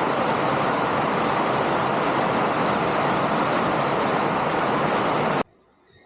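Heavy rain falling on the workshop roof, a steady, dense hiss making a ruckus; it cuts off abruptly about five seconds in.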